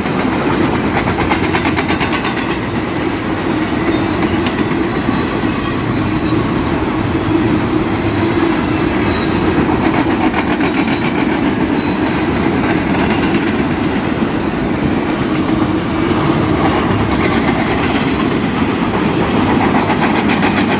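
Long BNSF freight train of empty flatcars and well cars rolling past, its steel wheels running on the rails in a steady, loud noise.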